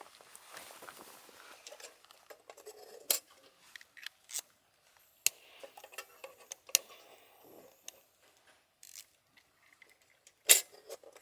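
Objects being handled at close range: scattered sharp clicks and light knocks with soft rustling between them, the loudest knock about ten and a half seconds in.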